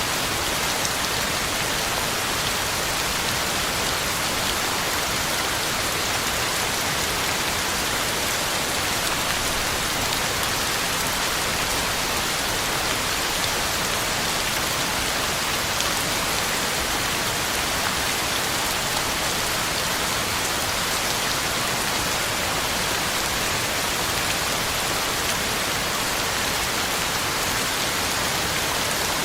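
Heavy rain falling steadily, a dense even hiss of drops pattering on the ground and leaves.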